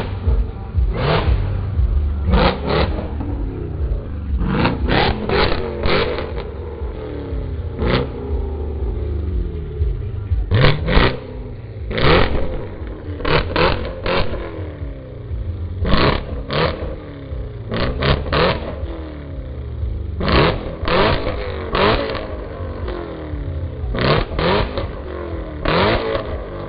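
A high-performance car engine being revved repeatedly at standstill: sharp throttle blips, often two or three in quick succession, each falling back toward a low idle.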